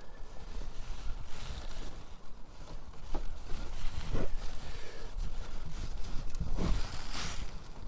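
Wind buffeting the microphone in uneven gusts, with a few brief rustles and knocks from hands handling parts.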